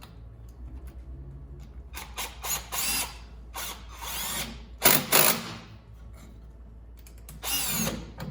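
Cordless impact bit driver running in several short bursts, whirring and hammering as it turns hose clamp screws.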